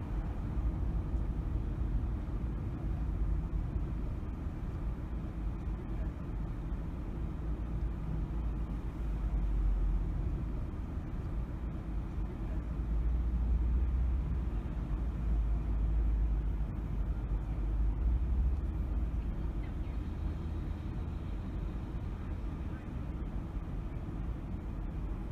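A car driving: a steady low rumble of tyres and engine, swelling and easing a little now and then.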